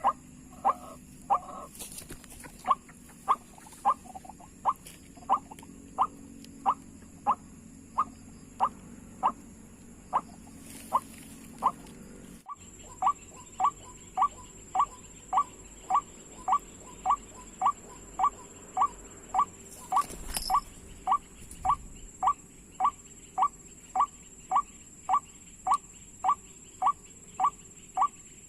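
White-breasted waterhen call: a long, monotonous series of short, identical notes repeated at an even pace of nearly two a second. There is a brief break about halfway through, after which the series goes on unchanged. A steady high-pitched whine runs underneath.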